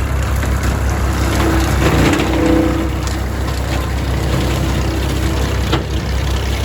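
Small tractor's engine running under load, driving a wide tractor-mounted brush cutter. Irregular crackling and splintering come from the brush being chopped, with a sharp crack about six seconds in.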